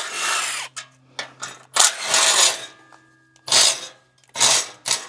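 Power tool cutting metal in short bursts, four times, each about half a second long and a hissing, gritty sound, over a steady low hum.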